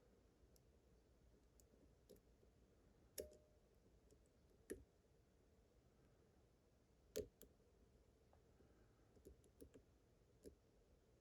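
Faint, scattered clicks of a lock pick working the pins of a pin-tumbler lock held under tension. Three sharper clicks fall about three, five and seven seconds in, and a few lighter ticks come near the end.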